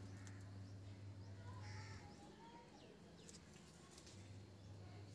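Faint bird calls, a short chirping call about one and a half to two seconds in, over a quiet background with a steady low hum.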